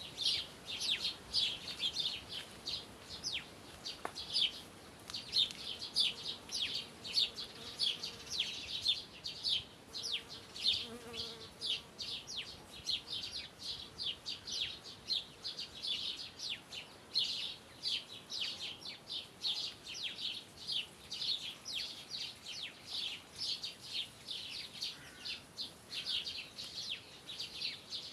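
Small birds chirping busily, with quick high chirps following one another several times a second.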